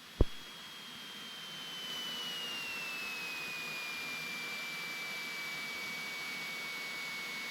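Cessna 182T cabin audio heard through the intercom recording: a single click, then a thin whine that slides down in pitch over about three seconds and holds steady above a faint even hiss.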